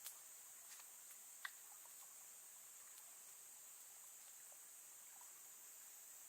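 Faint insect chorus: a steady high-pitched drone, broken by a few faint clicks, the sharpest about a second and a half in.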